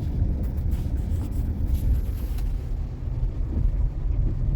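Inside a Waymo robotaxi's cabin while it drives: steady low road and tyre rumble. A faint hiss with a few light ticks sits over it in the first half, then fades.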